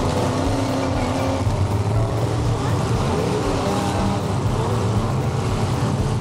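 Demolition derby cars' engines running in the arena, a steady low mechanical din, heard over the chatter of a grandstand crowd.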